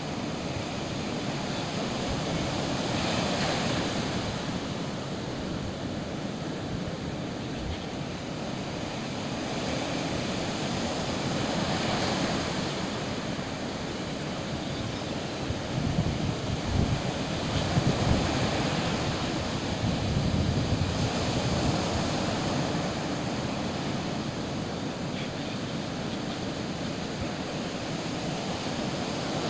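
Sea waves washing on the shore, swelling and fading about every eight seconds, with wind buffeting the microphone, most in a gusty stretch a little past halfway.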